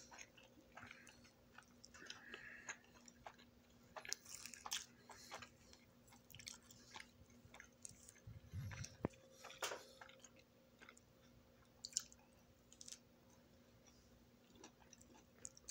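A person chewing food close to the microphone: quiet, irregular wet smacks and clicks of the mouth.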